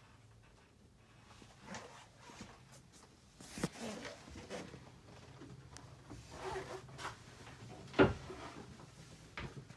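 Rustling and scattered knocks from someone moving about and handling things in a small boat cabin, with one sharp knock about eight seconds in.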